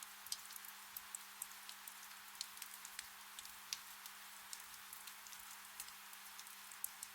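Gentle rain falling steadily, with many separate drops ticking irregularly against the soft patter. A faint low steady hum lies beneath.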